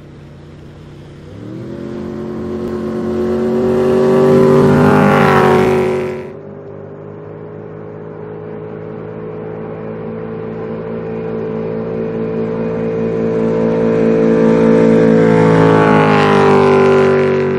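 A 475 hp Corvette V8 in a 19-foot boat running under power. It starts quietly, builds to a loud peak about five seconds in and drops off suddenly at about six seconds. It then builds slowly again to a second loud peak near the end.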